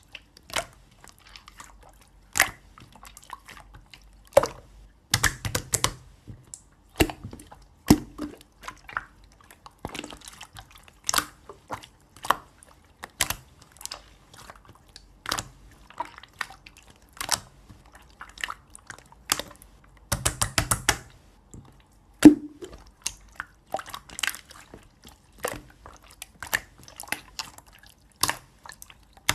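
Clear blue slime being squeezed and pressed by hand, giving wet clicks and pops at irregular intervals, with quick runs of crackling pops about five seconds in and again around twenty seconds.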